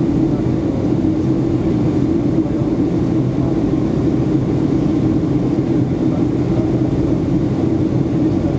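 Steady cabin noise inside a Boeing 757-200 on descent: even engine drone and airflow rush, with a low steady hum.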